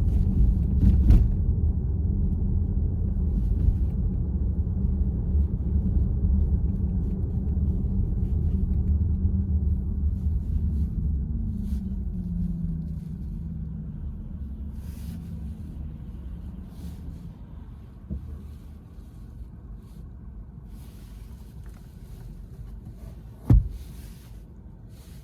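Low road rumble inside the cabin of a VW ID.4 being driven, fading away over the second half, with one sharp click near the end.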